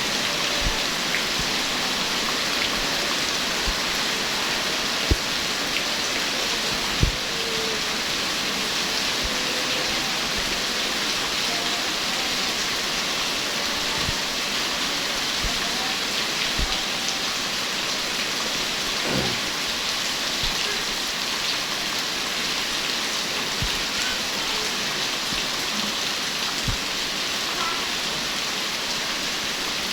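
Heavy rain pouring steadily, with occasional short knocks.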